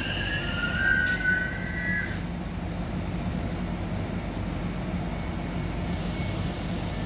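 Class 701 electric multiple unit braking into a station, with a high squeal from the brakes or wheels that dies away about two seconds in as it comes to a stand. A steady low hum follows as the train stands.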